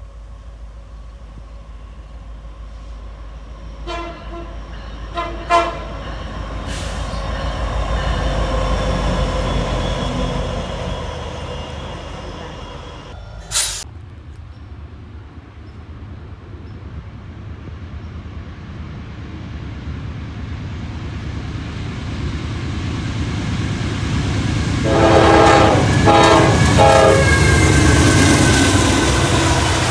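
Diesel freight locomotives passing with a heavy rumble that swells and builds again near the end, their horn sounding a couple of short toots early on and a quick series of blasts later. A single sharp crack is heard about halfway through.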